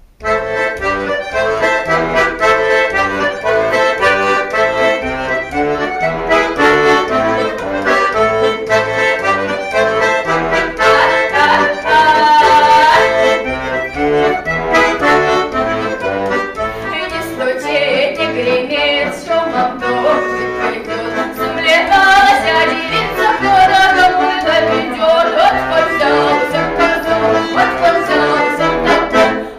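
Accordion playing a Don Cossack dance tune: a quick, busy melody over bass notes that change in a steady rhythm.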